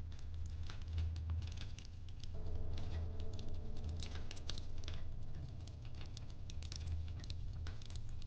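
Wood fire crackling in a fireplace: irregular sharp pops and ticks over a low steady hum.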